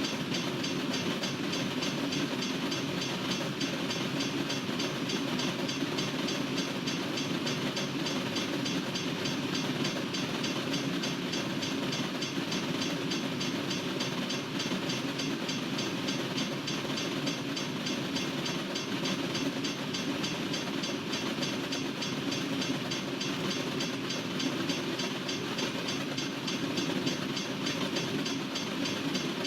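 Freight train cars rolling steadily past, with a continuous rumble of wheels on the rails.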